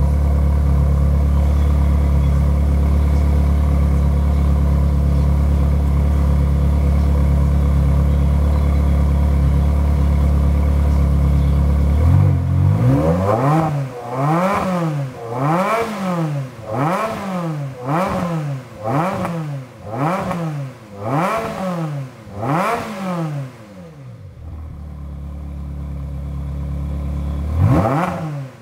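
Ferrari 360 Modena's V8 through a freshly fitted ANSA exhaust, idling steadily, then blipped about ten times in quick succession, each rev rising and falling in about a second, before settling back to idle and giving one more rev near the end. The exhaust is fairly quiet, which the owner puts down to it being new and not yet burned in.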